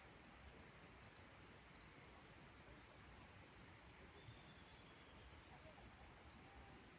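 Faint, steady chorus of crickets in the evening countryside, with a couple of faint thin bird calls about halfway through.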